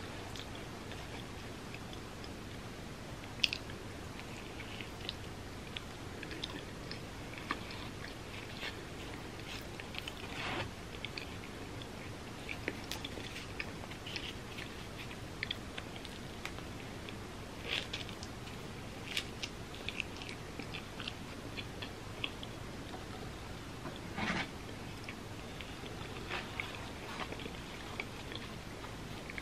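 A person chewing and biting pizza close to the microphone: soft wet mouth clicks with a handful of louder, sharper crunches of crust.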